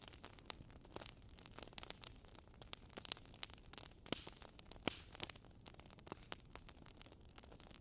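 Wood fire in a fireplace crackling: irregular sharp snaps and pops, a few louder ones, over a faint steady hiss.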